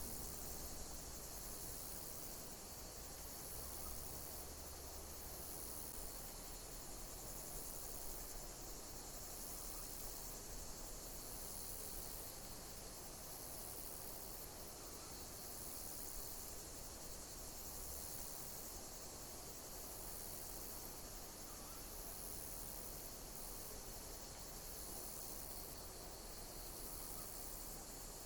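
Insects chirping in a steady, high-pitched chorus, with a call that repeats every two to three seconds.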